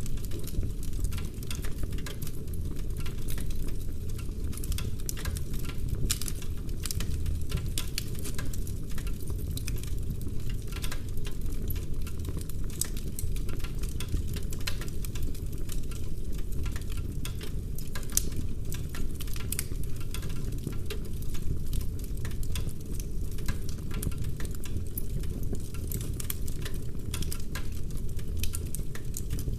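Wood fire burning in a fireplace: a dense, steady crackle of small pops and snaps from the burning logs over a low rumble of the flames.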